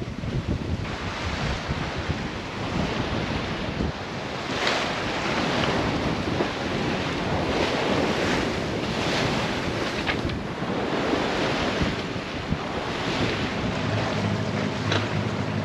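Wind buffeting the microphone and sea water rushing past a sailing yacht's hull while under way. Near the end a low steady engine drone comes in.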